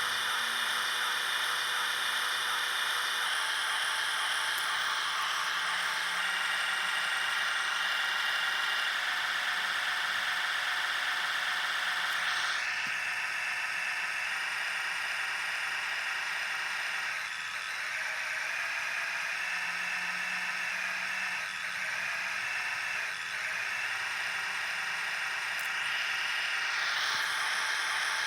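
Radio-controlled model bulldozer's electric motors and gearboxes whirring. The pitch and level shift in steps every few seconds as the drive changes speed.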